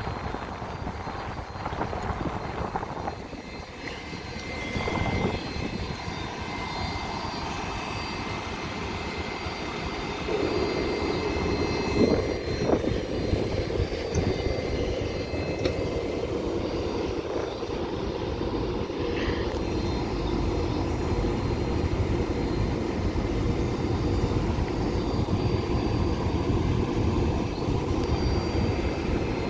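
Train running at the station platform: a steady low hum with high whining tones, growing louder about ten seconds in, with a few short clunks.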